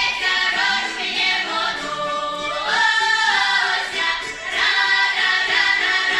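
Children's folk ensemble singing a Russian traditional song together, with long held notes.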